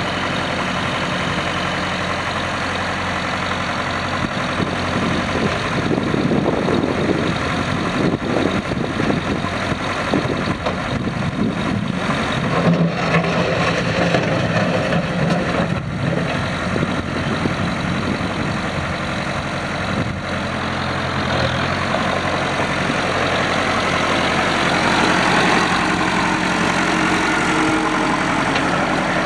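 Massey Ferguson tractor engine running steadily at idle, growing a little louder over the last several seconds.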